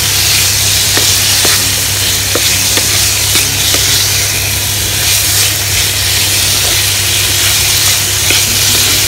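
Diced chicken sizzling in oil in a pan as it is stir-fried, with scattered light clicks and scrapes of a spatula against the pan, over a steady low hum.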